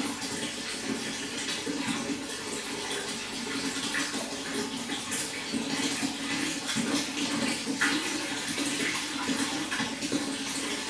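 Running water flowing and splashing steadily, a continuous trickling rush with many small splashes.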